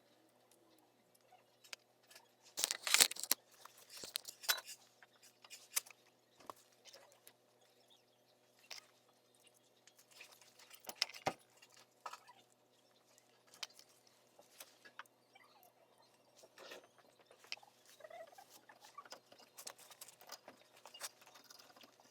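Scattered small clicks, taps and scrapes of tools and parts being handled, loudest in a short cluster about three seconds in and a sharp knock about eleven seconds in.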